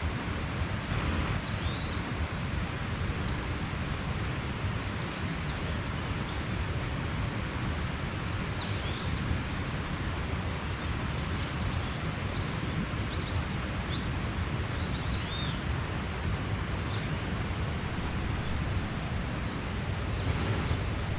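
Mountain stream rushing steadily, with small birds chirping in short, high, scattered calls over it.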